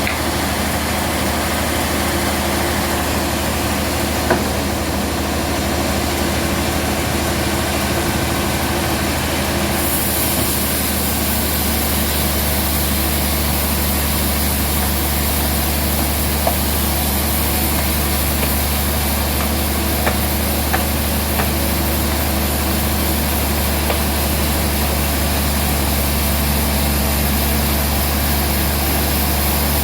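Band sawmill running steadily with a constant motor drone. A high hiss grows louder about ten seconds in, and there are a few faint knocks.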